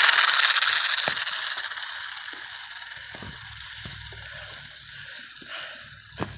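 Electric RC plane's motor and propeller whirring at full throttle for takeoff, loudest at first and fading steadily as the plane moves away.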